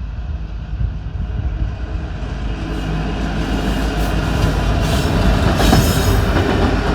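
BNSF coal train's diesel locomotives and steel wheels on the rails, a low rumble with rising rail noise that grows steadily louder as the train comes closer.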